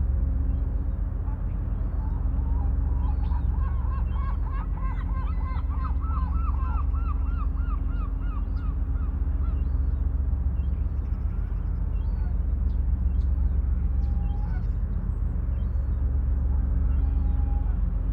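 A bird calling in a quick series of honking notes, roughly three a second, from a couple of seconds in until about the middle, with scattered short calls from other birds. A steady low rumble runs underneath.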